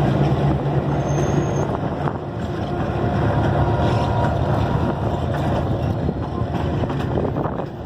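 Train cars rolling past close by: a steady rumble of wheels on the rails with a low hum, and wind on the microphone.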